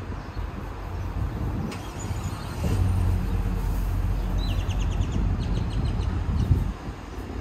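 A vehicle engine running with a steady low hum, louder from about three seconds in until near the end. A bird chirps a short rapid trill about halfway through.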